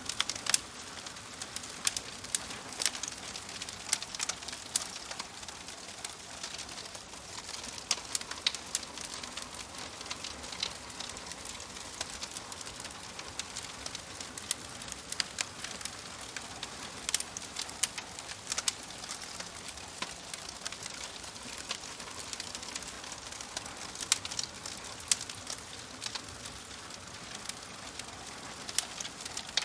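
Wood fire crackling in a fireplace: irregular sharp pops and snaps, a few louder than the rest, over a steady soft hiss.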